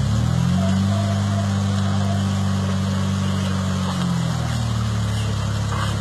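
Off-road 4x4 engine revs up just after the start and holds at high revs for about four seconds, then drops back to a lower, steady speed.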